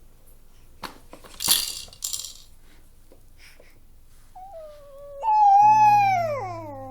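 A baby's high-pitched vocal noise: a short squeak, then one long loud squeal that slides down in pitch, about two-thirds of the way in. Earlier there are a couple of small clicks and a brief breathy hiss.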